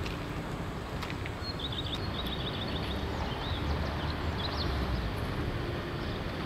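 Steady low rumble of a freight train passing, hauled by a VR Sr1 electric locomotive. A bird chirps in a quick series of high notes from about a second and a half in until nearly five seconds in.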